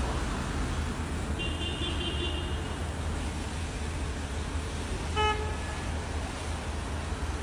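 Steady low vehicle engine rumble with one short car horn toot about five seconds in.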